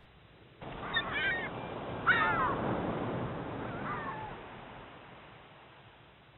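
Ocean waves washing ashore with birds squawking over them: three calls, the loudest about two seconds in. The surf swells and then fades out near the end.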